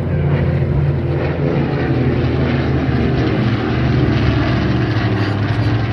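Piston-engined propeller aircraft flying past in formation, a Dakota with a Hurricane and a Spitfire, their engines giving a loud, steady low drone.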